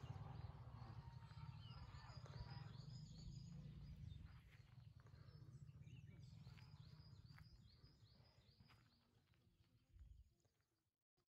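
Faint songbirds in the woods: two runs of quick, short high notes over a low, fluttering rumble of wind on the microphone, all fading out near the end.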